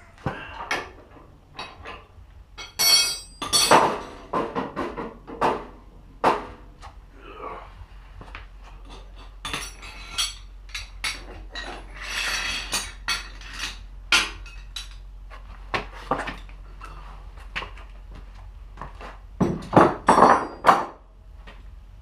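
Metal tools and parts clinking and knocking as they are handled, irregular sharp strikes, some with a brief ring. The strikes are loudest a few seconds in and again in a cluster near the end.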